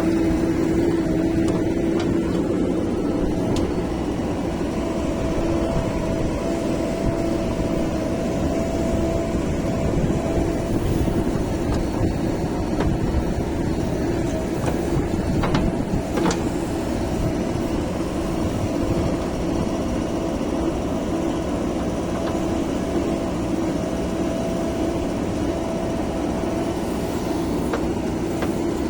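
Diesel engines of heavy machinery running steadily under work, with a steady whine over the drone and a couple of short clicks a little past halfway.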